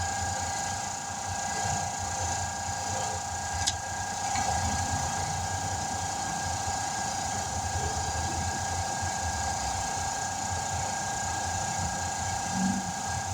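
A motor or engine running steadily, a low hum with a high, even whine over it, and a single sharp click about four seconds in.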